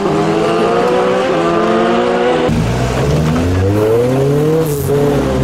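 Car engines accelerating away, the pitch climbing steadily. An abrupt cut about halfway through brings in another engine that revs up, drops briefly and climbs again.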